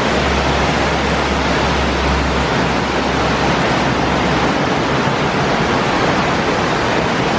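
Waterfall rushing loudly and steadily, with a low rumble under it for the first half.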